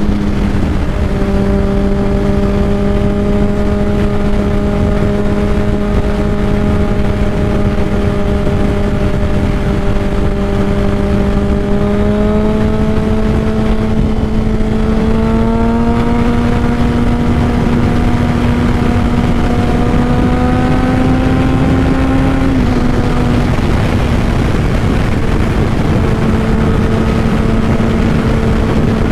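2005 Honda CBR600RR inline-four with a Two Brothers full exhaust running at steady cruising revs under a rush of wind noise. The engine note climbs slowly, then drops suddenly about two-thirds of the way through and holds lower.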